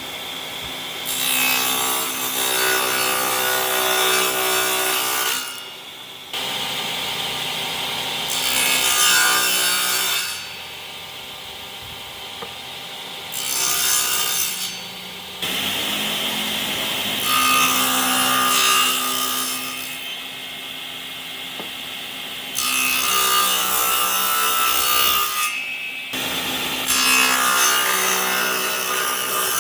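A power tool working wood in six passes of about two to five seconds each, loud while cutting and quieter between passes.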